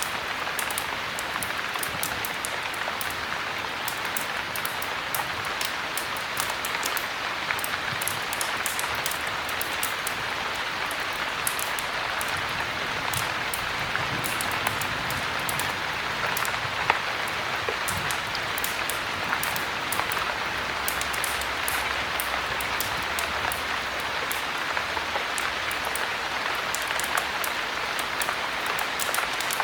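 Steady heavy rain, an even hiss, with frequent sharp ticks scattered throughout.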